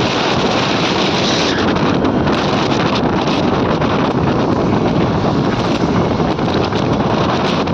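Steady, loud wind buffeting the microphone.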